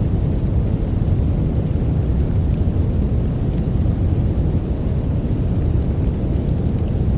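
Steady deep rumbling noise of a sleep noise track, heavy in the bass with little treble.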